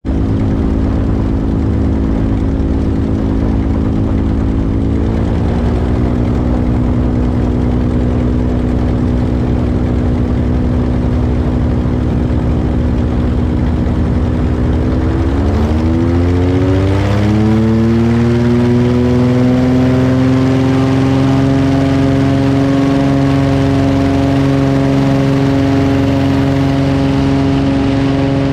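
Velocity V-Twin's twin pusher piston engines and propellers running with a steady drone. The pitch rises as power is added, a small step about five seconds in and a larger climb a few seconds after the middle, then holds steady at the higher setting.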